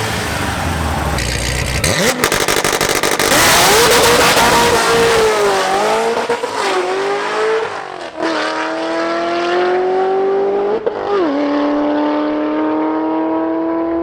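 A drag car with a roughly 1,000 wheel-horsepower engine launches about two seconds in and runs hard down the strip. Its engine pitch climbs, then drops sharply twice as it upshifts, about eight and eleven seconds in. The sound fades as the car pulls away.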